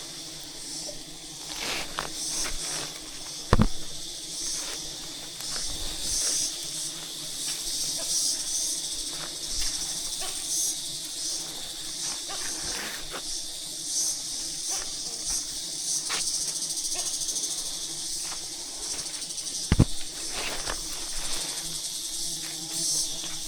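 A steady, shimmering high-pitched hiss of insects, with two sharp knocks, one about three and a half seconds in and one near the end.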